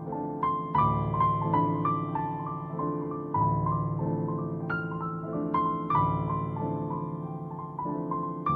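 Slow, gentle piano music: a melody of single notes over low held notes that change about every two and a half seconds.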